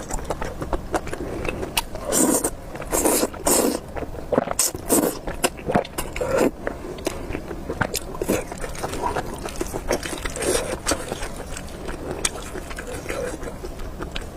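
Spicy beef noodle eating sounds: chopsticks clicking and scraping against the bowl, with several louder noisy bursts about two to four seconds in.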